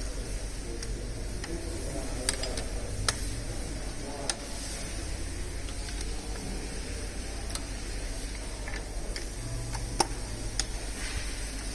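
Scattered sharp clicks and taps of hand tools and metal parts during engine dismantling, about half a dozen over a steady low hum.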